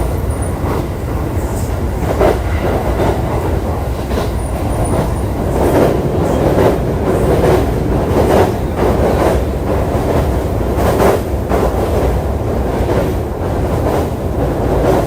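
JR East E531 series electric train running at speed, heard from inside the car: a steady rumble of wheels on rail with a clack over rail joints about once a second, loudest through the middle.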